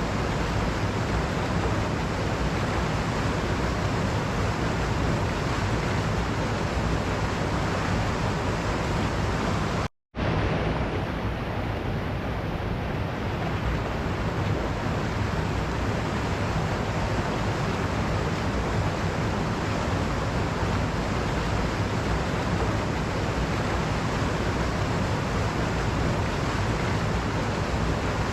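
Waterfall, water rushing in a steady, even roar. It cuts out for an instant about ten seconds in, then carries on unchanged.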